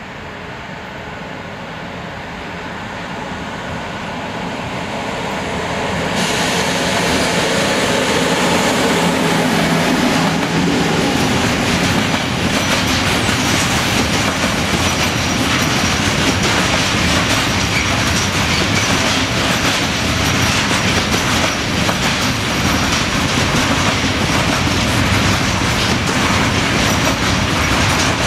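Container freight train hauled by an HŽ Cargo electric locomotive, growing louder over the first six seconds as it approaches. The container wagons then roll past close by with a steady clatter of wheels over the rail joints and a faint high squeal.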